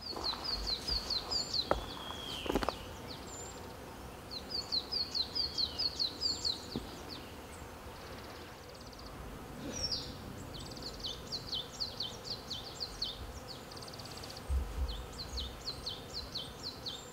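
Wild birds calling outdoors in repeated quick runs of short, high, down-slurred chirps, about four or five a second, over a steady background hiss. There are two soft knocks about two seconds in.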